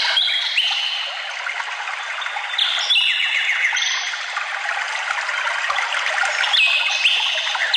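Forest stream trickling steadily, with birds singing high, held whistled notes over it that come in abruptly several times.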